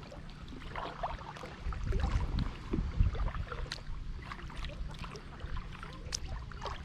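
Kayak paddle strokes in river water: small splashes and drips from the blade, with a steady low rumble underneath.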